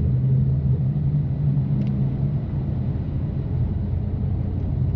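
Exhaust and engine of a 2018 BMW M3 Competition (S55 twin-turbo inline-six, catless downpipes, exhaust valves open) giving a steady low drone while driving at an even pace, with tyre and road noise underneath.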